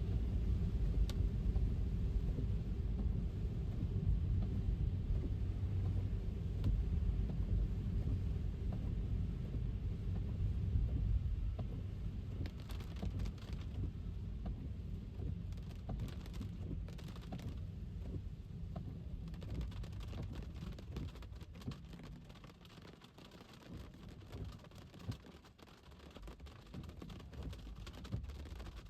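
Rain-drive ambience from a car on a wet city street: a low road rumble for the first ten or so seconds that then fades away, followed by quieter rain with many scattered raindrop taps.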